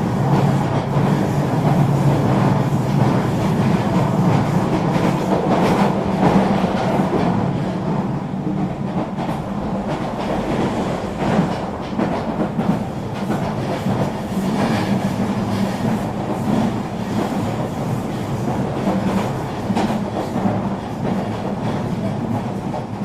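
Eurobahn regional electric train running along the track: a steady rumble and hum of wheels on rail, with occasional short clicks, easing slightly in loudness partway through.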